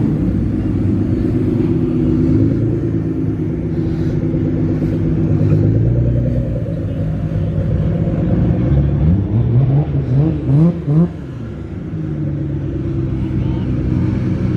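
Car engines idling steadily. About nine seconds in, one engine is revved in several quick blips, each rising in pitch, before it settles back to idle.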